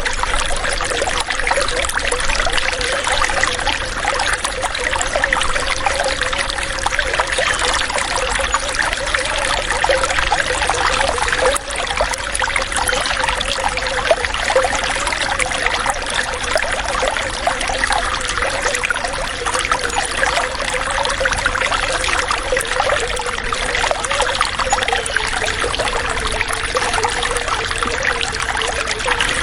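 Water running and trickling steadily, with a fine bubbling texture and no breaks.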